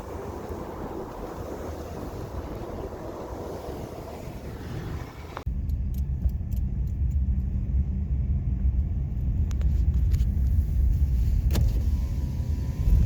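Car driving on snowy roads: steady road and wind noise. About five and a half seconds in it changes abruptly to a heavier low rumble with a few clicks.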